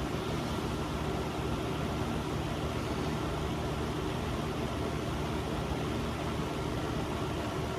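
A steady low machine hum with a constant hiss underneath, unchanging throughout.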